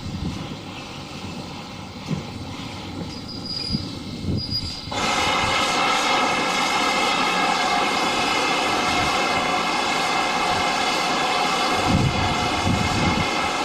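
A railway locomotive's whistle sounding one long steady blast, several pitches at once, starting suddenly about five seconds in and cutting off abruptly some nine seconds later. Before it there is a low rumble with a few knocks.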